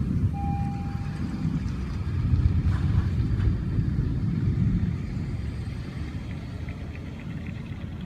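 Low rolling rumble of thunder, swelling about two to three seconds in and then slowly fading. A short steady tone sounds near the start.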